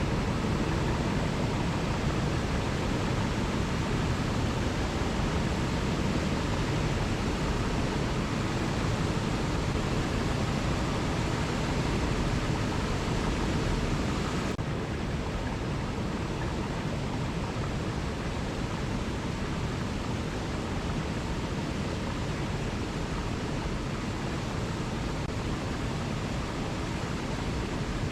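Waterfall rushing in a steady, even stream of water noise; about halfway through, it becomes slightly quieter and duller.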